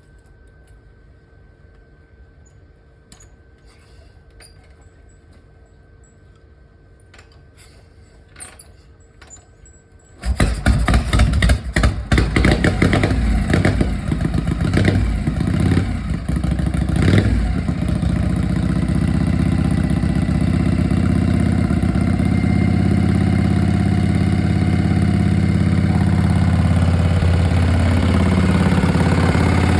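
Harley-Davidson shovelhead V-twin in a rigid-frame bike: a few light clicks and knocks, then about ten seconds in the engine fires and catches. It is blipped with uneven revs for several seconds, then settles into a steady idle.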